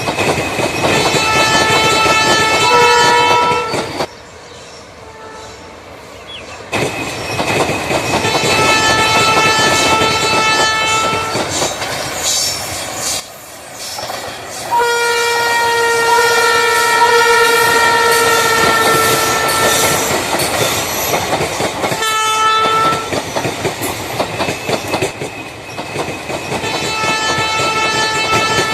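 Train horns sounding in about five long blasts, each with several notes at once, over the steady running noise and wheel clatter of a train. The sound drops off abruptly twice.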